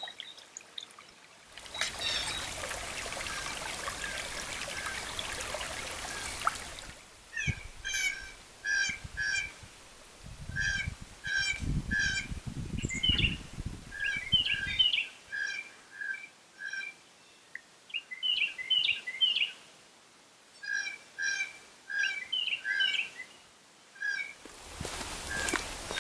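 Water trickling for a few seconds, then a bird calling over and over in short notes with several overtones, in groups of two to four, with some low thumps partway through; the trickling comes back near the end.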